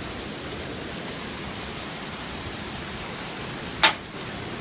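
Steady rain falling. Near the end there is a single sharp knock.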